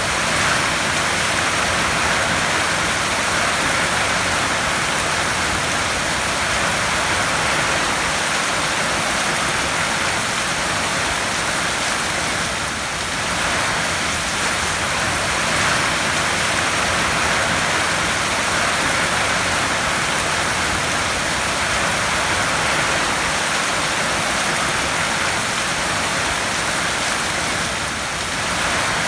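Heavy rain falling steadily on a tin roof, as a dense, even hiss of drops.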